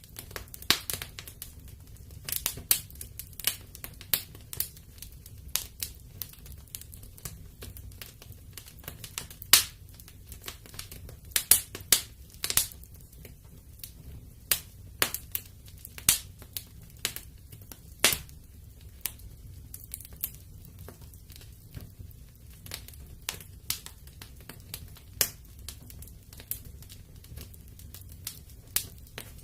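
Wood fire burning in a fireplace, crackling and popping: irregular sharp snaps of varying loudness, several a second, over a faint low rumble of the flames.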